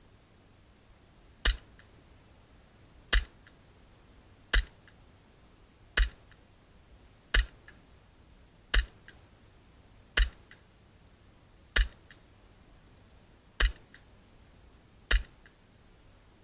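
Gas blowback airsoft Glock 17 pistol fired in single aimed shots, ten sharp cracks about one and a half seconds apart, each followed by a faint second click.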